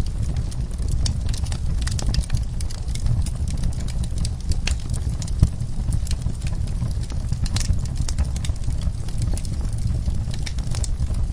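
Wood fire crackling, with many irregular sharp pops over a steady low rumble; the loudest pop comes about five and a half seconds in.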